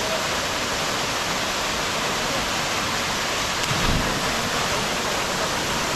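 Waterfall plunging into its pool: a steady, even rush of falling water.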